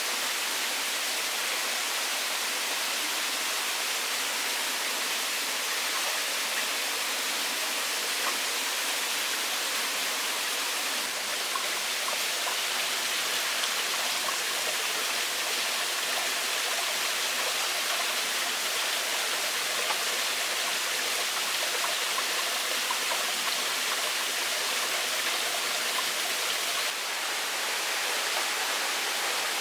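Stream of running water, a steady rushing hiss that stays even throughout.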